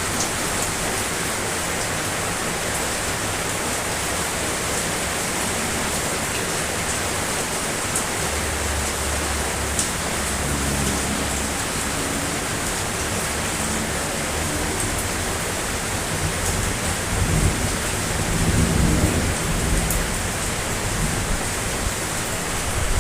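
Steady rain, with low rumbles of thunder that come in about a third of the way through and grow stronger and more frequent in the second half.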